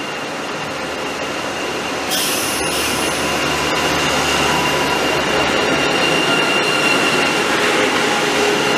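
High-speed train running: a steady rushing noise with a thin high whine over it. The sound changes abruptly about two seconds in and grows slightly louder toward the end.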